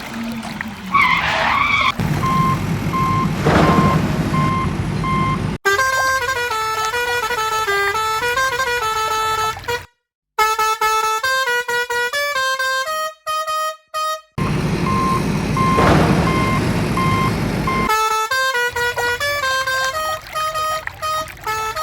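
Cartoon vehicle sound effects: an engine rumble with a horn beeping in short repeated toots, heard twice. In between and near the end, a plinking background tune plays.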